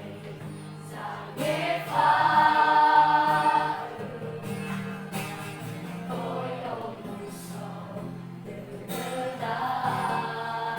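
Vocal group singing a Christian worship song in several voices, with a loud held note starting about two seconds in and lasting nearly two seconds.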